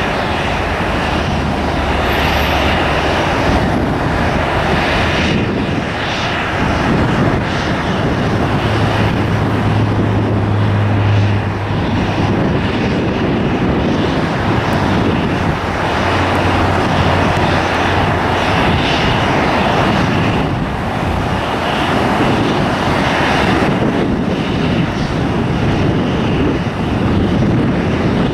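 Jet airliner engines running loud and steady, with a low hum that swells for a few seconds about a third of the way in.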